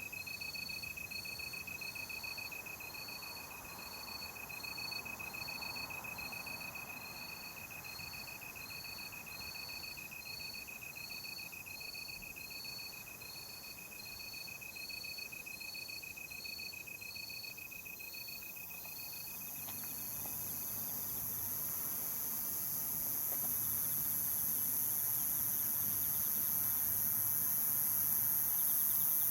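Night insects in a forest chorus: one steady cricket trill and another chirping evenly about twice a second, both stopping about two-thirds of the way through, over a high shrill insect drone that grows louder toward the end.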